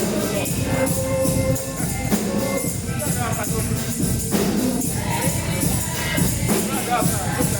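Live gospel praise music: voices singing together over a steady beat, with a tambourine shaken and struck on the beat.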